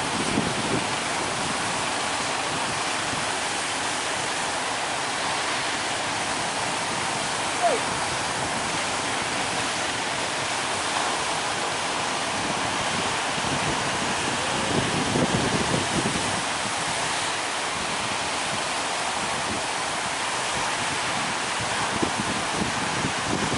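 Big waves breaking on the sea at a river mouth, a steady rushing wash of surf that swells briefly about fifteen seconds in, with one short falling squeak about eight seconds in.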